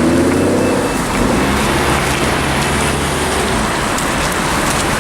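Car engine running at low revs, its note dropping slightly in the first second, then holding steady and fading out about three and a half seconds in, leaving a steady hiss of road noise.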